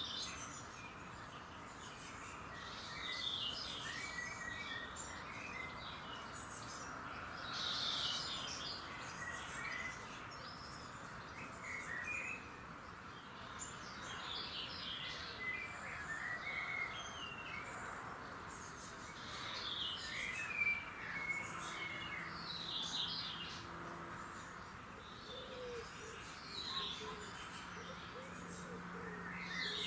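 Several birds singing and chirping over a soft steady background hiss, short phrases and calls overlapping and coming every second or so.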